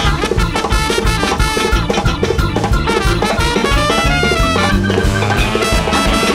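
Live big-band jazz: horns and trumpet playing over a driving drum kit and bass groove.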